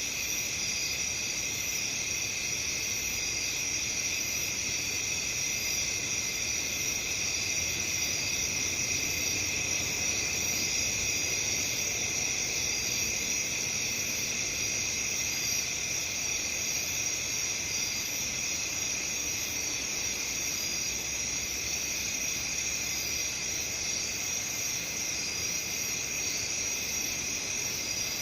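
A chorus of crickets chirping steadily and without pause, a dense high-pitched trill.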